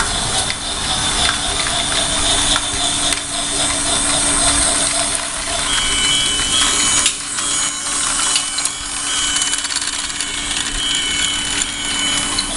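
Battery-powered toy steam locomotive's small electric motor whirring steadily along its track, with a constant hum underneath.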